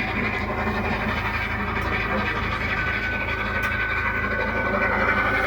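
A train running past with a steady rumble, joined by a high whine about three seconds in.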